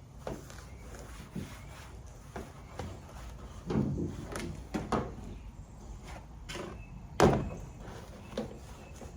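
Hands wiping down engine-bay plastic parts with a rag: scattered light knocks, taps and rubbing as the parts are handled, with one louder knock about seven seconds in.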